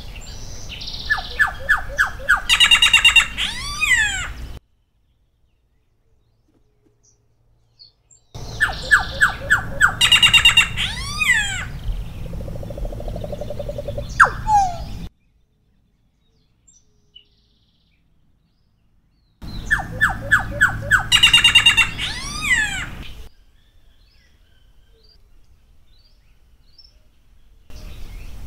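Solitary black cacique singing: three song bouts, each a run of evenly spaced clicking notes leading into a fast high chatter and a series of slurred whistles, with silent gaps between them; a fourth bout starts near the end.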